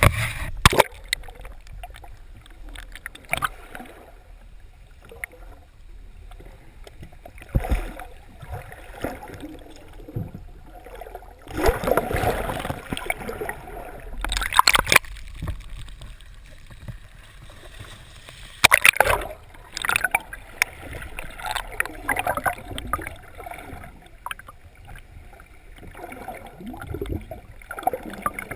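Water sloshing and splashing against the side of a boat, with several louder splashes at irregular intervals.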